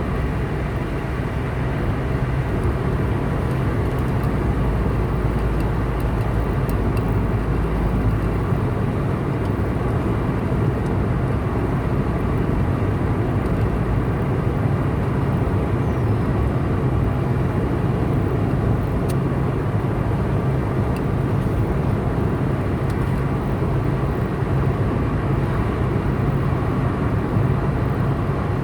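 Steady road noise of a car driving on a highway: an even engine and tyre rumble, with a deeper low drone that drops away about eight seconds in.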